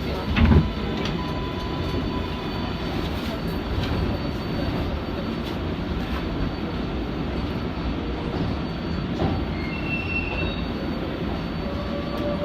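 R188 subway train running along the track, a steady rumble with faint wheel squeals and one loud bang about half a second in.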